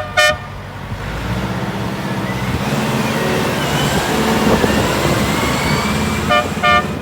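Hydrema 912 dumper's diesel engine running and revving up about a second in. A horn gives two short toots at the start and two more near the end.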